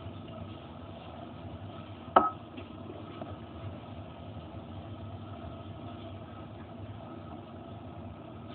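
Steady mechanical hum with one sharp knock about two seconds in.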